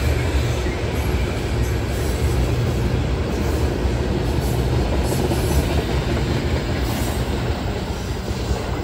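Freight train of loaded lumber flatcars rolling past: a steady low rumble of steel wheels on rail.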